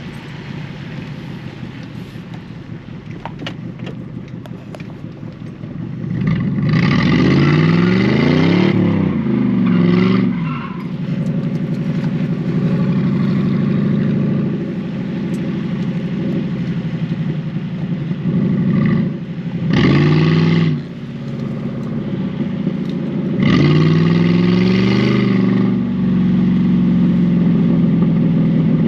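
Ford V8 car engine running, then revved hard several times, its pitch climbing and falling through each burst of throttle, with steadier running between the bursts.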